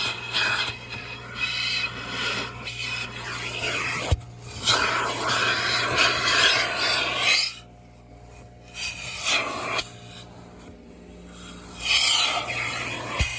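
Car wash vacuum hose nozzle sucking and rubbing across the car's interior, the rushing hiss rising and falling as it moves and easing off for a while past the middle, over a steady motor hum. Two brief knocks, about four seconds in and near the end.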